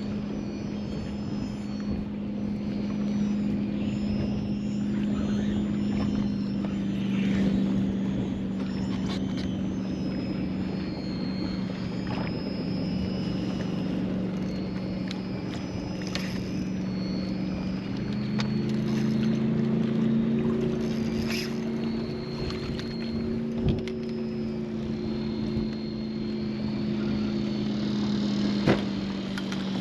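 MotorGuide Xi3 electric trolling motor on a kayak, running with a steady hum. Its pitch steps up slightly about two-thirds of the way through and drops back near the end, with a couple of light knocks.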